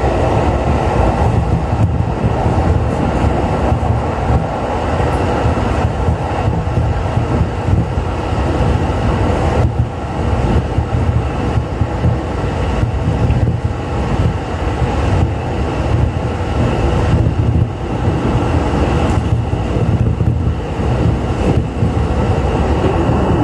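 Running noise of a JR East E531 series electric train at speed, heard inside the carriage: a steady, even rumble of wheels on rails.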